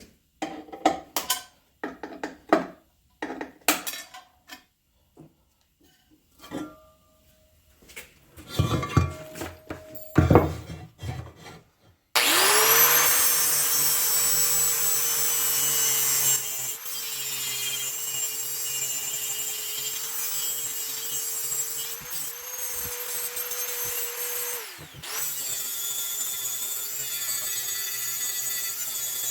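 Scattered clicks and knocks of parts being handled, then about twelve seconds in a power grinder with a flap wheel spins up and grinds steadily, trimming the part's edge to fit. Near the end it winds down briefly and starts again.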